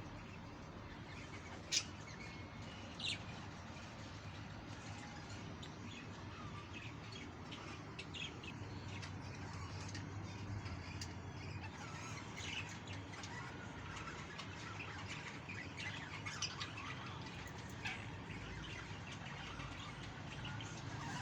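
Budgerigars chirping and chattering: many short, scattered chirps, with one sharp, louder note about two seconds in.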